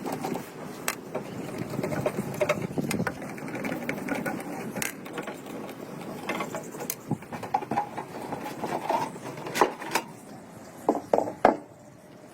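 Mechanical rattling with many sharp clicks and knocks, several louder knocks coming close together near the end.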